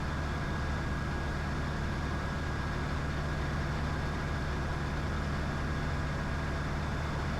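Diamond DA20's single piston engine and propeller droning steadily at circuit power, heard from inside the cockpit.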